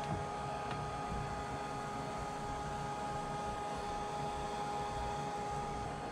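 Hair dryer running steadily, an even rush of air with a constant motor whine, blowing a cat's fur dry after a bath.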